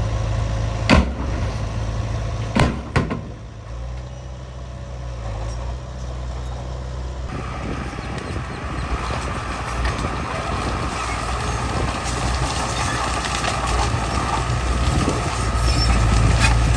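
Heavy diesel earthmoving machinery running with a steady low engine rumble. A few sharp clanks come in the first three seconds, and about seven seconds in a louder, gritty grinding noise joins in and continues.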